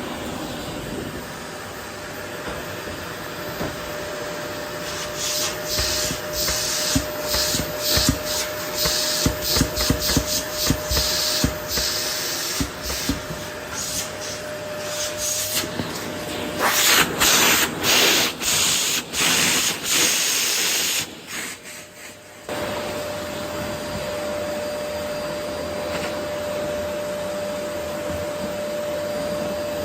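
Vacuum cleaner running over a wooden floor and sucking up rose petals, with a steady motor whine. Through the middle come many quick rattling, scraping strokes, then the sound drops briefly about two-thirds of the way through before it runs evenly again.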